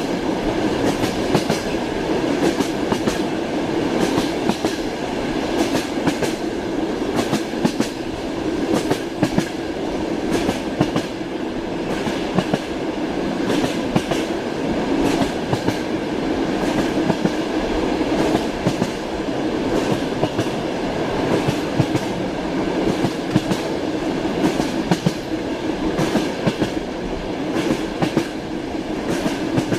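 Passenger train rolling along, heard from inside a compartment: a steady rumble with frequent clicks of the wheels over rail joints.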